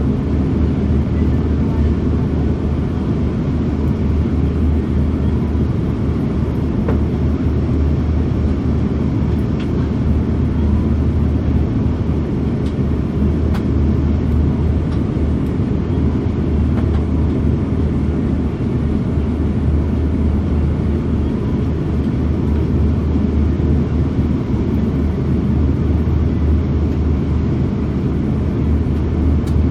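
Steady low cabin roar inside an Airbus A340-600 in flight: engine drone and airflow rumble with a deep hum, unchanging throughout.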